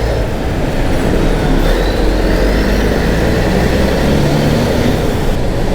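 Motorcycle engine running while riding through city traffic, with a steady low rumble throughout and a faint rising whine about two seconds in.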